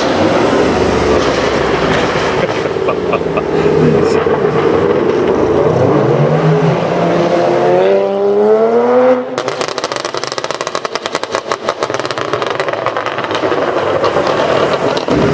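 BMW 1M's twin-turbo straight-six accelerating hard with rising revs, then about nine seconds in lifting off into a long run of rapid exhaust crackles and pops from its aftermarket exhaust.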